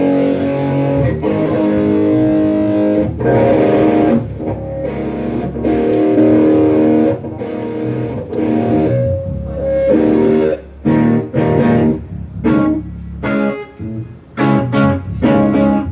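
Guitar strumming chords during a band sound check: held chords for the first several seconds, then short, choppy chords with brief gaps between them in the second half.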